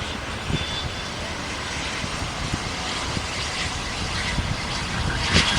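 Jet airliner engines running, a steady rumble and hiss with a faint high whine that grows louder near the end, over wind buffeting the microphone.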